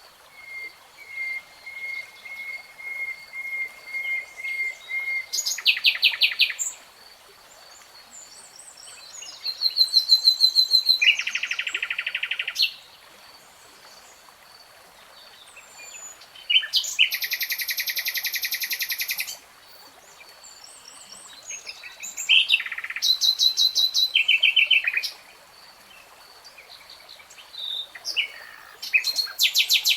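Common nightingale singing: a run of repeated whistled notes that swell louder over about five seconds, then loud, fast trills in phrases of two to three seconds with short pauses between them.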